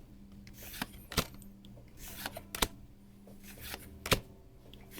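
Trading cards being handled and slid past one another as a pack is flipped through, soft swishes of card on card with a few sharp snaps of card edges.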